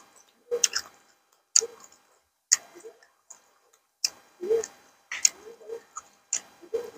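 Close-up eating sounds: wet chewing and lip smacks in short sharp bursts about once a second, with quiet gaps between.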